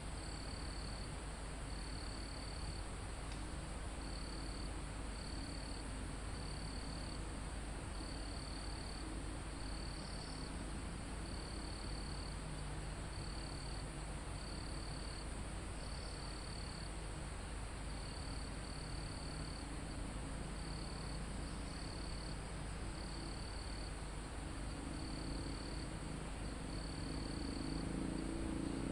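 Forest insect chorus: a cricket trilling in short bursts of about a second, repeating with brief gaps, over a continuous higher-pitched insect buzz and a soft hiss. A low rumble grows slightly near the end.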